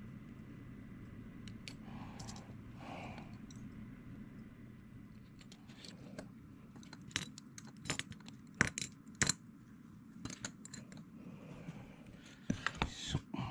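Leather-craft hand tools and small hard parts being handled at a workbench: irregular sharp clicks and clinks. They come sparsely at first, grow more frequent about halfway, with the loudest pair about nine seconds in and a quick cluster near the end.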